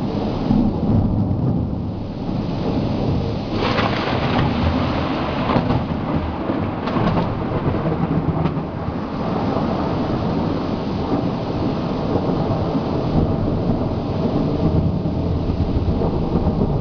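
Thunder rumbling on and on over steady rain during a thunderstorm, with a louder rush of noise about four seconds in.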